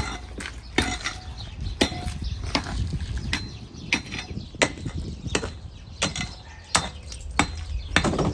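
Irregular sharp knocks and clatter, about one or two a second, of broken concrete slab being pulled out by hand and loaded for hauling.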